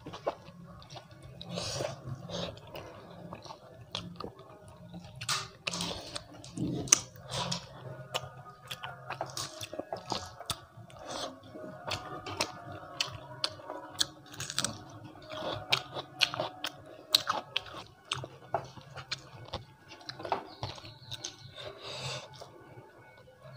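Close-miked chewing of a mouthful of rice and dal, wet and irregular, with many short crisp crunches and clicks throughout.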